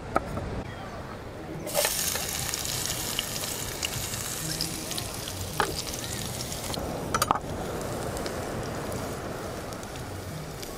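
A last knife chop on a wooden cutting board, then about two seconds in, sliced garlic and Thai chilli go into hot oil in a small pan and sizzle steadily. A couple of short clinks sound from the pan partway through.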